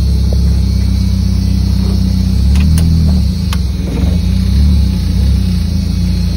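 Turbocharged car engine running while driving, heard from inside the cabin as a steady low drone that eases off briefly about three seconds in, then picks up again, with a few sharp clicks.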